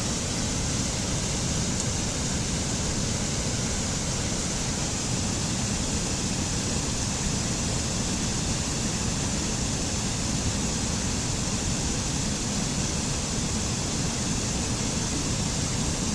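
Waterfall rushing steadily: a dense, even hiss of falling white water over a low rumble.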